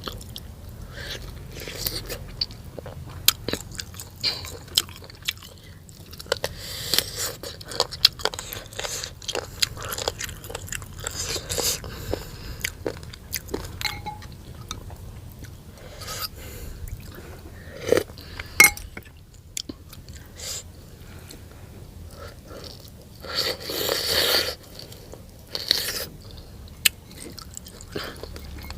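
Close-miked eating: a person chewing and biting into noodle soup and pickles, with many sharp crunchy clicks and a few longer noisy mouth sounds, the loudest a little past the middle.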